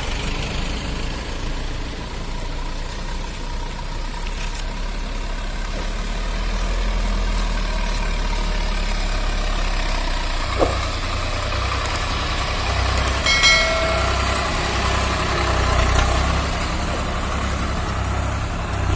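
Tractor diesel engine running steadily with a low hum. About two-thirds of the way in, a short pitched tone sounds briefly over it.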